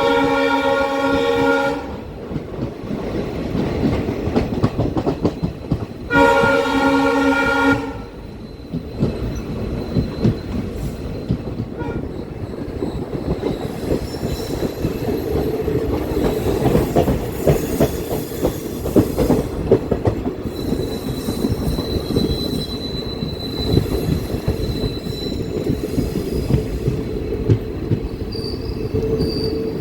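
Multi-tone horn of a WDP4B diesel locomotive sounding twice: a blast that ends about two seconds in, and another from about six to eight seconds in. Between and after the blasts the passenger train runs along steadily, with rumbling and wheels clattering on the rails.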